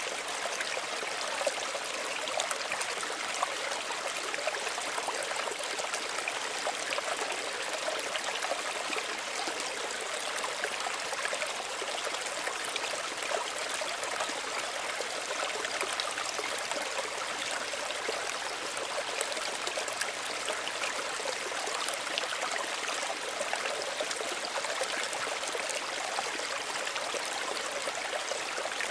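Small stream running steadily over stones, a continuous gentle rush with many small trickling splashes.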